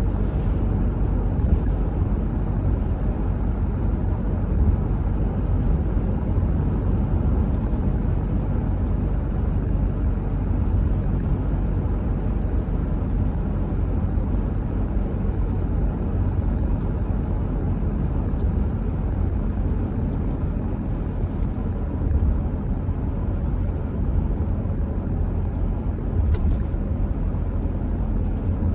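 Steady low rumble of a car driving at an even speed: road and engine noise with no change in pace.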